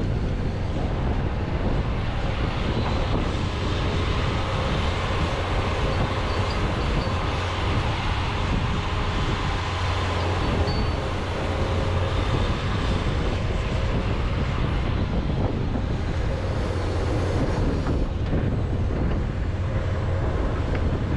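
John Deere 210G excavator working, its diesel engine running steadily.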